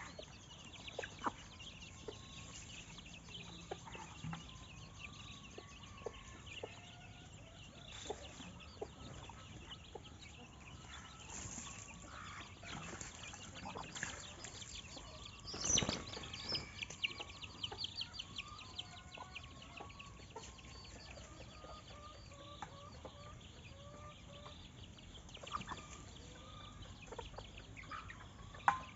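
Chickens clucking softly on and off, with a louder short burst of sound about halfway through and scattered sharp ticks.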